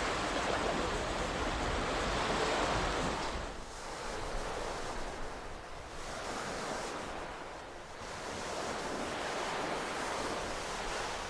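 Calm ocean waves washing onto the shore in slow swells: one wash fades about three seconds in, and smaller swells rise and fall away after it.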